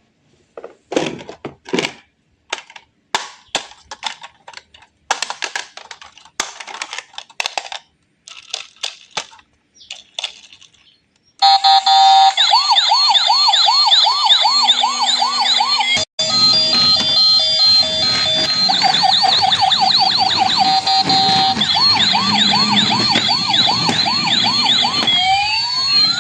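A run of short, irregular clicks and knocks, then, about eleven seconds in, electronic siren sounds start: several warbling sirens wail over one another.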